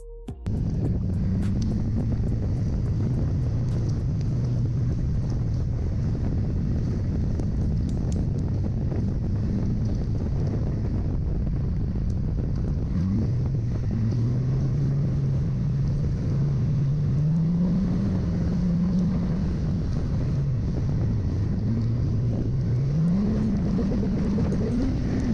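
Yamaha R6's inline-four engine running under heavy wind rush on the microphone, starting suddenly just after the start. The engine note rises and falls several times as the bike speeds up and slows, climbing higher in the second half.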